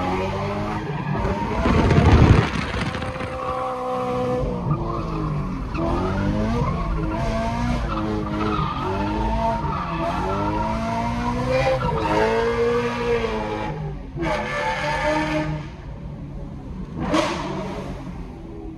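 BMW car engine revving up and falling back again and again through the gears while being driven hard, heard from inside the cabin with tyre and road noise. A loud rush of noise about two seconds in.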